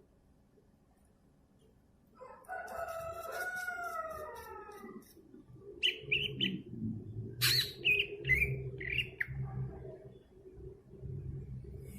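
Near silence, then about two seconds in a rooster crows once in a long wavering call. From about six seconds in come a string of short high bird chirps over a low steady hum.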